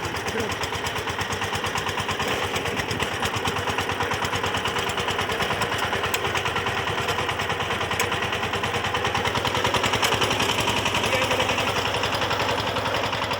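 Single-cylinder diesel engine of a VST Shakti 130 DI power tiller running under way with the throttle opened up: a rapid, even chugging of firing pulses, slightly louder about ten seconds in.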